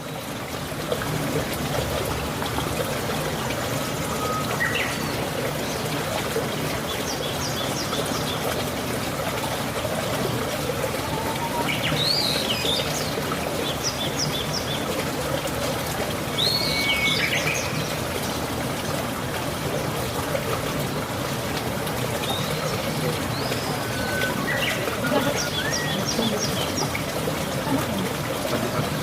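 A steady rushing noise, like running water, with small birds chirping briefly several times over it in short rising calls and quick high trills.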